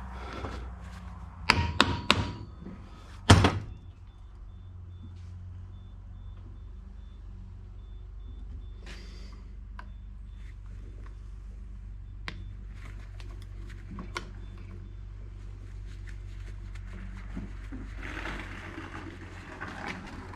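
Three loud knocks of hard parts struck on a workbench in the first few seconds, the last one ringing briefly, followed by a steady low hum with scattered faint clicks of small parts being handled.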